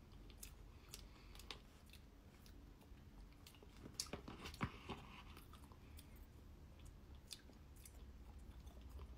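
Faint, close-up chewing and mouth sounds of a woman eating trifle, with scattered small clicks.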